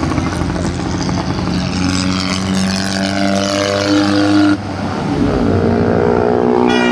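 Tractor engine running hard at high revs with a steady loud note. It cuts off abruptly about four and a half seconds in, and another engine note rises right after.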